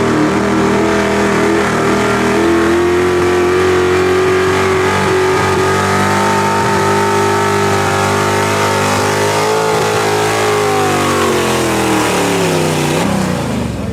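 Competition pulling vehicle's engine running hard at high revs with a steady pitch. Over the last few seconds the revs wind down and the pitch falls away.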